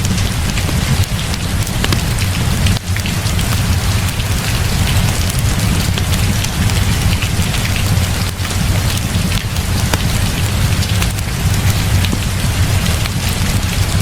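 Heavy rain falling steadily, a dense hiss full of small drop ticks over a constant low rumble.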